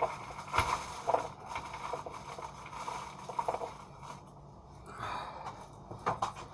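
Scattered light clicks and taps of small metal bolts being handled and tried against a magnet: the ordinary bolt catches on it, the hard-alloy bolts do not.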